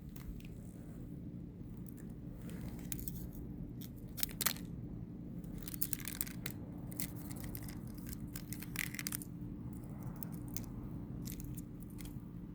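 Irregular crunching and crackling of ice and frost, a dozen or so sharp clicks at uneven intervals, over a low steady hum.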